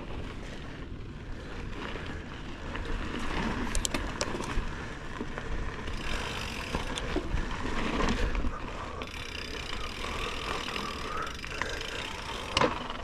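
Cross-country bicycle rolling over a forest trail: tyres on dirt with the chain and frame rattling and scattered clicks over rough ground, and wind rumbling on the microphone. A sharp knock comes near the end.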